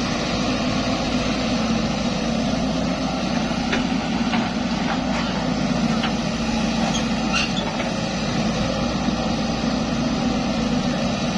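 Zoomlion excavator's diesel engine running steadily with an even low drone, and a few faint short clicks in the middle.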